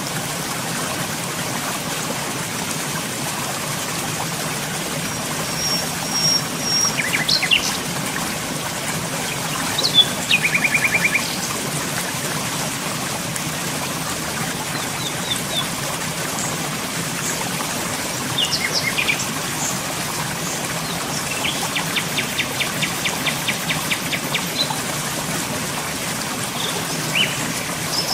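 Birds calling over a steady rushing noise. There is a high held whistle about six seconds in, chirps and a short fast trill around ten seconds, and a longer fast trill of evenly repeated notes about three-quarters of the way through.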